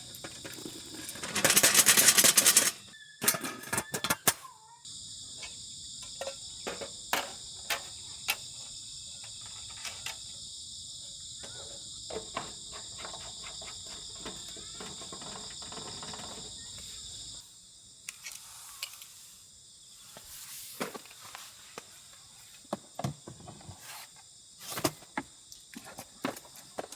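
A steady chorus of crickets chirping, cutting off abruptly about two-thirds of the way through. Scattered small clicks and knocks run throughout, and there is a loud rushing noise for about a second near the start.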